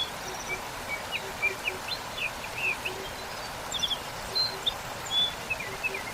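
Waterfall rushing steadily, with small birds chirping over it in many short, quick chirps.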